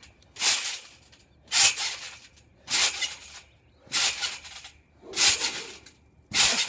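A trampoline bouncing under a person doing repeated backflips: six short whooshing landings on the mat and springs, evenly spaced about one every 1.2 seconds.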